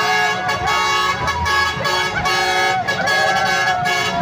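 Truck horns sounding together in a dense, sustained chord of steady tones, with a wavering melody line gliding over them.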